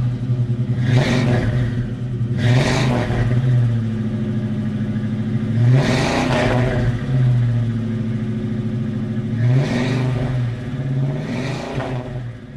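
Car engine sound: a steady low engine hum with five swells in which the pitch bends up and back down, like revs or vehicles passing.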